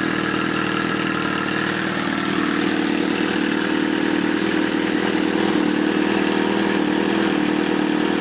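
2007 Suzuki GSX-R1000's inline-four engine idling steadily through an aftermarket M4 exhaust, held at idle without revving.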